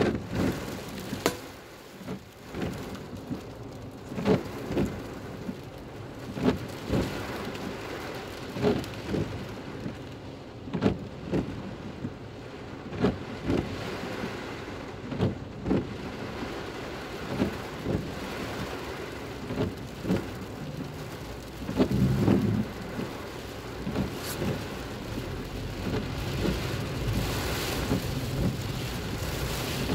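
Heavy rain falling on a car's roof and windscreen, heard from inside the car as a steady hiss, with frequent sharp knocks about every second and a louder burst of them near the end.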